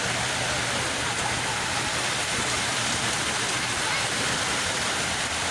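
Sea waves washing onto the shore in a steady, continuous rush of surf.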